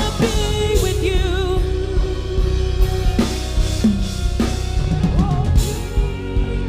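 Gospel worship music: a voice holds long, wavering notes with vibrato over bass and a drum kit.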